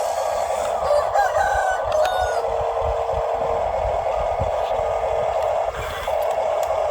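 A rooster crows about a second in, one drawn-out crow with gliding pitch, over a steady mechanical whine.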